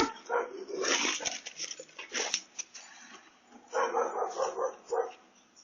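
A dog barking and yelping, with a quick run of short barks near the end, picked up by a doorbell camera's microphone.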